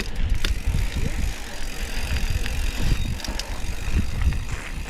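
Mountain bike being ridden over a rough dirt trail, heard from a bike-mounted onboard camera: tyre rumble on the ground with frequent sharp clicks and rattles from the bike.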